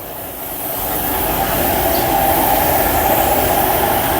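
Compressed-air paint spray gun spraying a covering coat of paint on a car body: a steady rushing hiss that builds up over the first second and then holds level.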